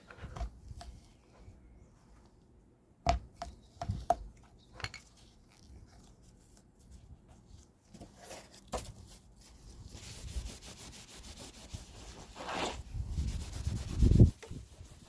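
Handling noises: a few scattered knocks and clicks, then several seconds of rubbing or scraping with fast ticks, and one loud low thump near the end.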